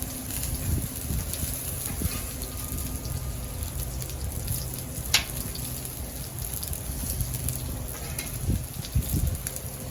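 Food sizzling on a Blackstone flat-top griddle, a steady frying hiss, with one sharp click about halfway through and a few knocks near the end.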